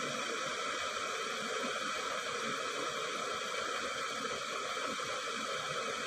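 Stainless-steel electric kettle heating water: a steady rushing hiss with a faint whine.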